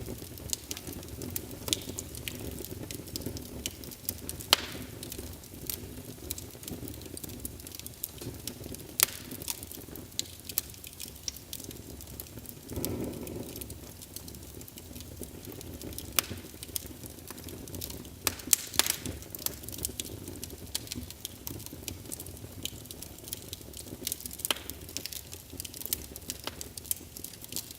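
Wood fire burning in a fireplace: a steady low roar of flames with irregular crackles and sharper pops of burning wood, the roar swelling briefly about halfway through.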